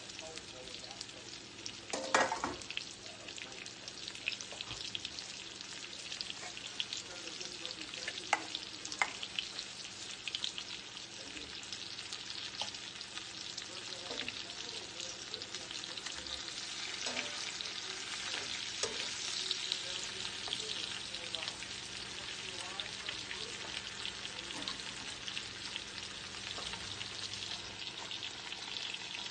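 Chicken pieces frying in olive oil in a skillet, a steady sizzle full of small crackles and pops. A few utensil knocks against the pan, the loudest about two seconds in and more around eight to nine seconds in.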